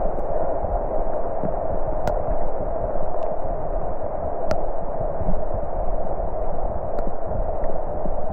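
Loud, muffled, steady rushing noise with no clear pitch, with a few faint sharp ticks over it, two of them stronger about two and four and a half seconds in.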